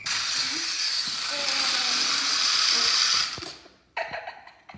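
Toy remote-control helicopter's small electric motor and rotors whirring, winding down after about three seconds, followed by a few light clicks and rattles.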